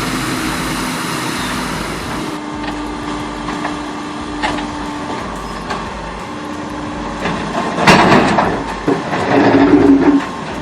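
Heavy truck running with a steady drone, followed by loud knocks and rattling in the last few seconds.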